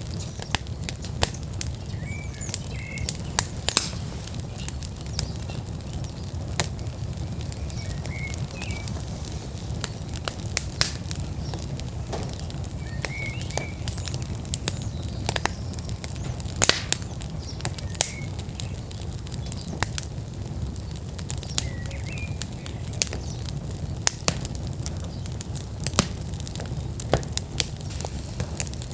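Wood fire in an outdoor fire pit at full burn, crackling with irregular sharp pops over a low steady rumble. A bird gives short faint chirps every few seconds.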